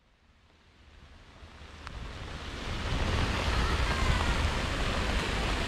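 Steady rain falling in a city street, a broad hiss with a low rumble underneath, fading in from silence over the first three seconds and then holding steady.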